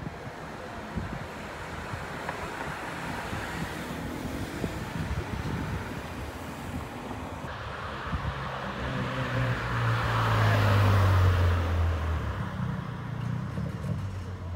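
Volkswagen Up 1.0 TSI's turbocharged three-cylinder engine pulling away down the street, its engine note building to a peak a little after halfway and then fading into the distance, over street noise and wind on the microphone.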